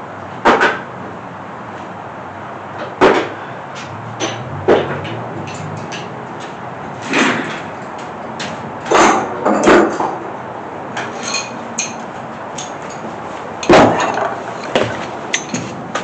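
Hand tools and sockets clanking and clicking against metal at irregular intervals, several sharp clanks among smaller clicks, as bolts are fitted to fasten an engine block to an engine stand.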